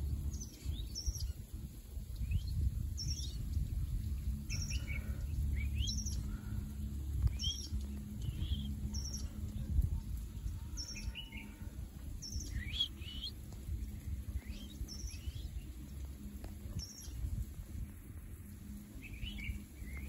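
A bird repeating short, high chirps that slide downward in pitch, about one a second, over a steady low rumble.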